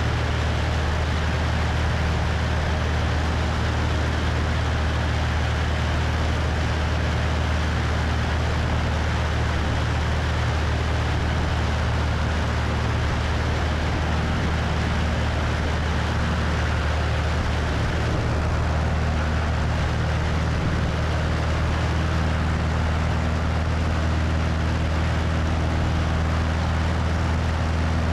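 Cessna 172's piston engine and propeller droning steadily in flight, with wind rushing over a wing-mounted microphone.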